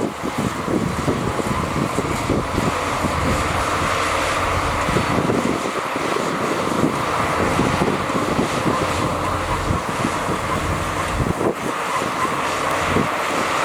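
Heavy diesel earthmoving machinery running steadily under load, with wind buffeting the microphone.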